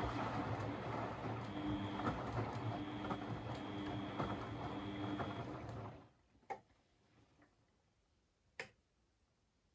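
Beko washing machine running, a steady rush with a low hum and a faint high whine, stopping abruptly about six seconds in; two short sharp clicks follow a couple of seconds apart.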